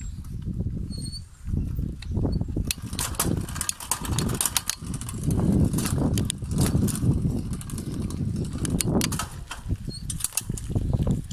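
Wind buffeting a camera microphone in low, uneven gusts, with many sharp clicks and rattles, like a handlebar-mounted camera on a bicycle over rough ground, from about three seconds in.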